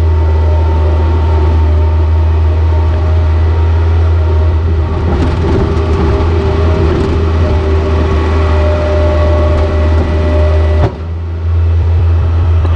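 Heavy diesel engine running steadily at a low, even hum, with an abrupt break about eleven seconds in.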